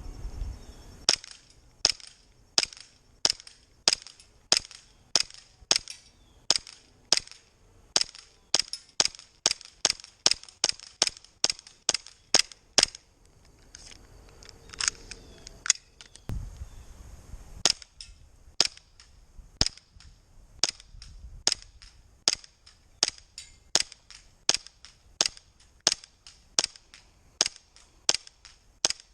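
Elite Force Glock 19 gas blowback airsoft pistol on green gas firing single shots at a steady pace of about two a second, each a sharp snap. There is a pause of a few seconds near the middle before a second long string of shots.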